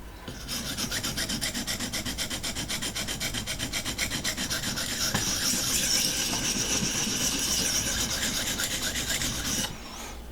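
A 250-grit sharpening abrasive on a Vipersharp guided sharpening system scraping rapidly back and forth along a steel knife edge, raising a burr on the secondary bevel. The strokes come fast and evenly, start about half a second in, and stop suddenly near the end.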